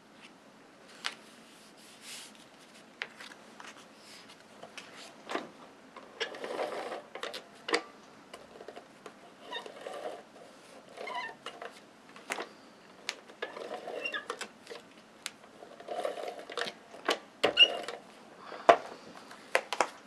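Paper and cardstock being handled on a craft table as photo mats are adhered down: short rustling and sliding with many scattered sharp taps and clicks, the loudest clicks near the end.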